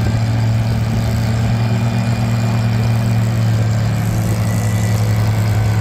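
Antique farm tractor engine running steadily under load as it pulls a weight sled, a constant low engine note with no change in pitch.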